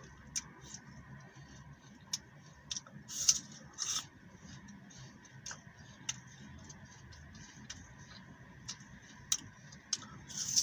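Crisp green apple being chewed close to the microphone: irregular sharp crunches and clicks, with louder bites about three and four seconds in and again near the end.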